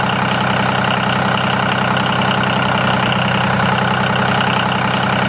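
A motor running steadily: an even, engine-like hum with a fast regular pulse and no change in speed.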